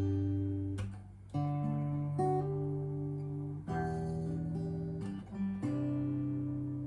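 Guitar accompaniment: slow chords strummed and left to ring, a new chord about every two seconds, the first one cut off just under a second in.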